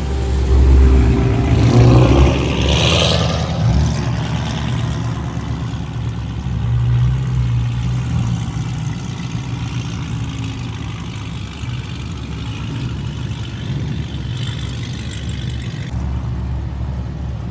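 Car engine running, louder for the first three seconds or so as it surges, then steady low running.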